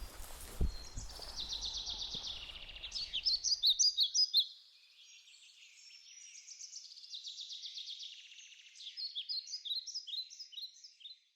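A songbird singing a repeated phrase: a rapid trill followed by a run of short, high chirps, heard twice. The low outdoor rumble underneath cuts off abruptly about four seconds in, leaving the birdsong alone.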